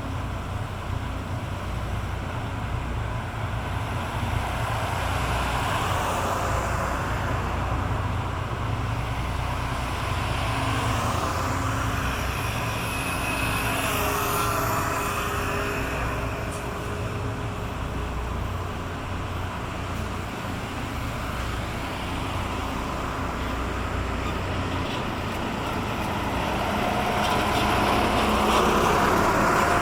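Ship's diesel engines passing by, a steady low rumble with a whooshing sweep about halfway through as a vessel goes past, growing a little louder near the end.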